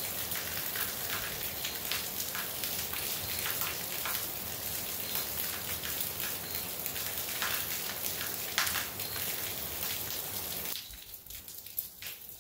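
Heavy rain falling, with close drops and water running off the roof spattering. The rain noise drops off sharply near the end.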